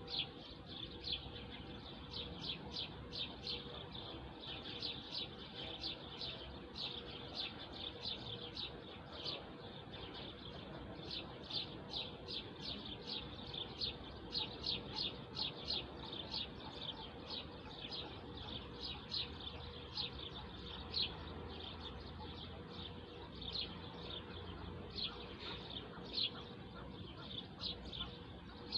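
Small birds chirping: a dense, continuous run of short, high chirps, several a second, with overlapping calls. A faint steady hum lies underneath.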